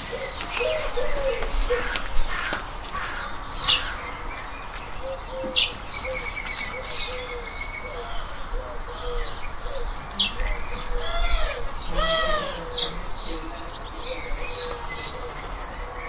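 Songbirds chirping and calling: many short, high chirps and quick falling whistles, over a run of lower, rounded arching notes repeated through the stretch.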